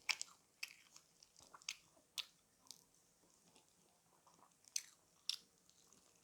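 Close-up chewing of crispy fried chicken: a string of sharp, irregular crunches and crackles of the coating as it is bitten and chewed.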